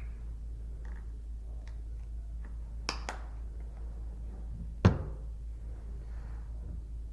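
A few light taps and clicks, a sharper knock about three seconds in, and one loud thump just before five seconds in, over a steady low hum.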